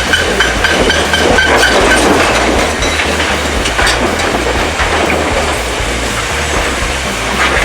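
Heavy construction machinery running with a rhythmic metallic clanking and a low rumble.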